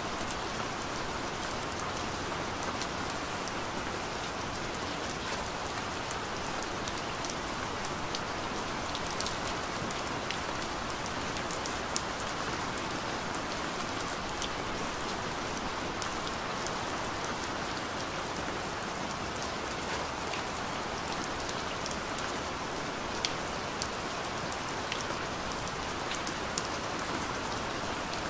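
Steady rain falling, with scattered sharp taps of single drops heard over the even hiss.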